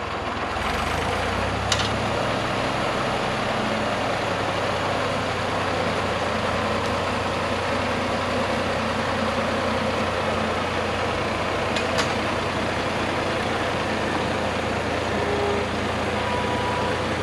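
A motor vehicle engine running steadily at idle, picking up slightly a little under a second in, with a few sharp clicks over it.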